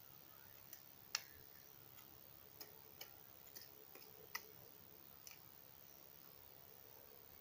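Near silence broken by sparse, irregular faint clicks, about seven of them spread unevenly across several seconds.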